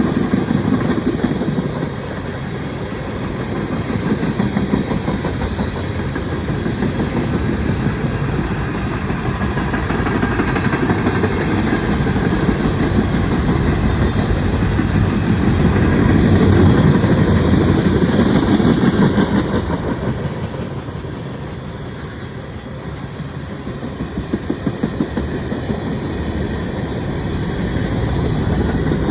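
Freight cars of a Norfolk Southern mixed freight train rolling past, with steady wheel-on-rail noise and a rhythmic clickety-clack of wheels over rail joints. The noise swells about halfway through, eases for a moment, then the clacking beats come through more plainly near the end.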